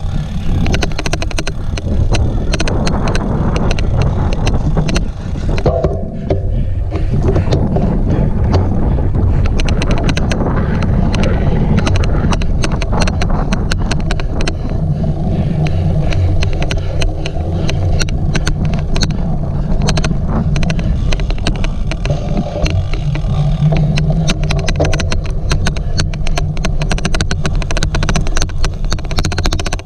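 Cyclocross bike ridden at race pace: a steady low rumble of riding over rough ground, with an odd, rapid, irregular clicking throughout.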